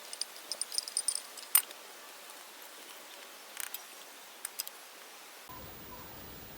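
A run of light, high-pitched clinks over the first second and a half, then a few scattered single clinks.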